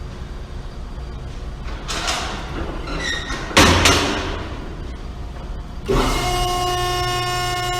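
Industrial baler: a loud metal slam about three and a half seconds in, then its motor starts about six seconds in and runs on with a steady hum.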